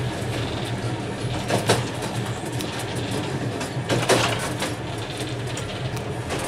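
A train running along the rails, heard from its saloon carriage: a steady low hum with running noise, and sharper wheel clacks about a second and a half in and again about four seconds in.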